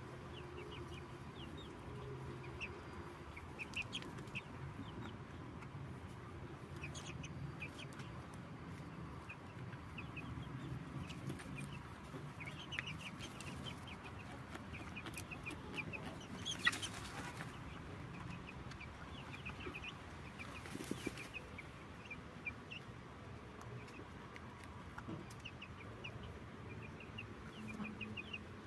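Chickens clucking softly, with many quick high chirps throughout. Two short rustling bursts come near the middle and about two-thirds of the way through.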